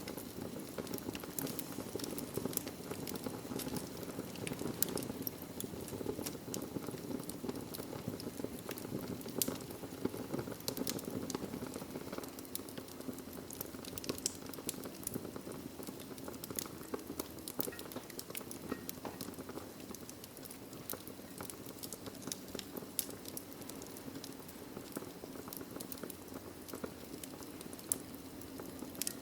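Wood fire burning in a fireplace: a steady low rushing of the flames with frequent sharp crackles and pops from the burning logs.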